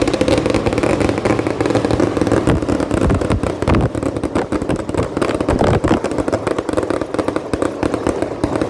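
Fireworks crackling in a dense, continuous barrage of rapid small bangs.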